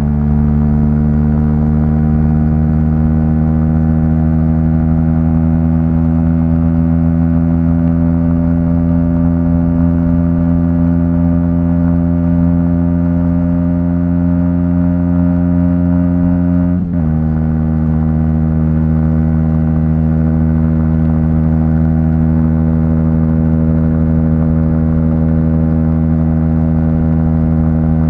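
Aprilia SX 125's single-cylinder four-stroke engine through an Arrow exhaust, pulling under load while riding. Its pitch climbs slowly as the bike gathers speed, drops sharply at an upshift about 17 seconds in, then holds steady.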